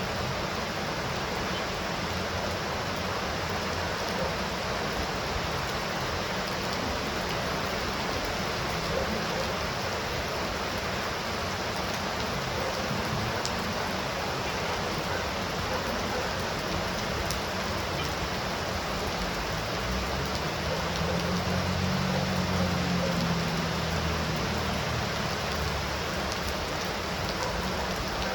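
Steady heavy rain falling, an even hiss of drops. About twenty seconds in, a low rumble swells for a few seconds and fades away.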